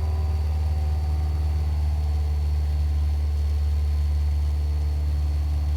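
Cessna 172's piston engine and propeller droning steadily at constant power in flight, heard inside the cabin.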